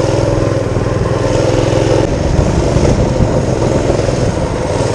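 Mini-bike's small engine running under way, holding a steady pitch for about two seconds, then turning rougher and uneven.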